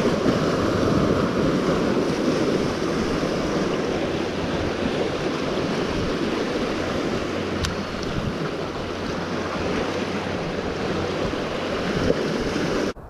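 Sea surf washing steadily, with wind buffeting the microphone; a single sharp click about two-thirds of the way through, and the sound cuts off suddenly near the end.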